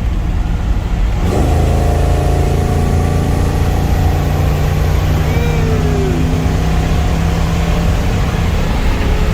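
Pickup truck's 350 cubic-inch ZZ4 crate V8 with fuel injection running under way along with road noise; about a second in the engine note rises and then holds steady as the truck cruises.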